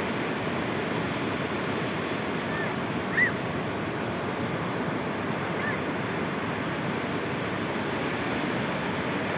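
Sea waves washing in, a steady rushing noise, with a few short high chirps, the loudest about three seconds in.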